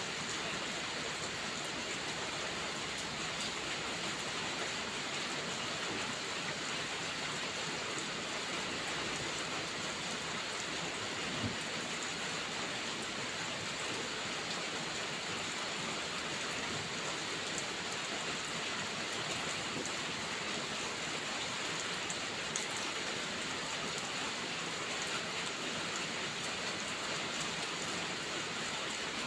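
Heavy rain falling steadily, with a few faint sharp pops now and then.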